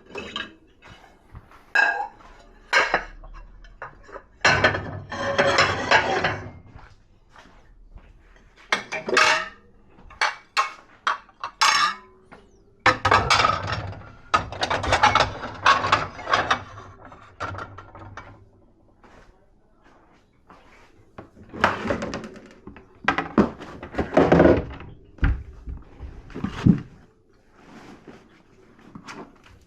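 Dishes and cutlery being handled at a dishwasher: irregular clinks, knocks and clatter of crockery and silverware, coming in several busy spells with short lulls between.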